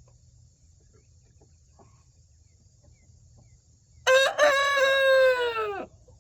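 A young rooster crows once, about four seconds in: a single loud crow of nearly two seconds that holds its pitch and then drops off at the end.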